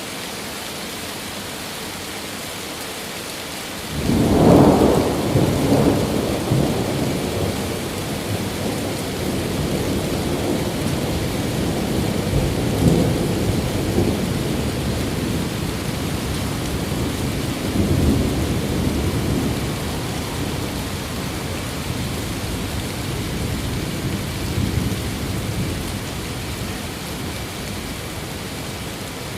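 Steady rain hiss, with a thunder roll breaking in about four seconds in and rumbling on in low waves that fade slowly over the rest of the stretch.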